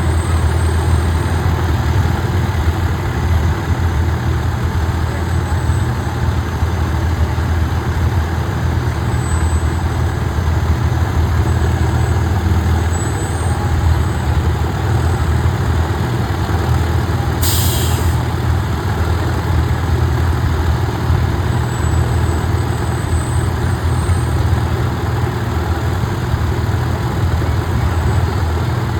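Fire truck's diesel engine idling with a steady low rumble. A brief hiss of air comes a little over halfway through.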